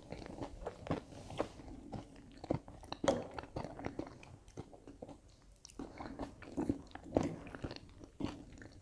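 Chewing and crunching on breaded Findus Sofficini with tomato filling: an irregular series of crunches and mouth sounds, quieter for a moment around the middle.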